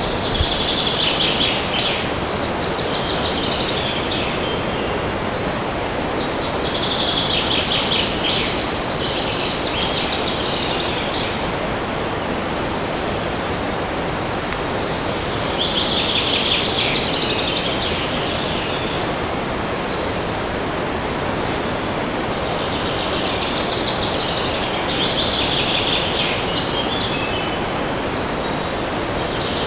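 Steady wind rushing through a forest, with a songbird singing phrases of rapid trilled notes about every eight seconds.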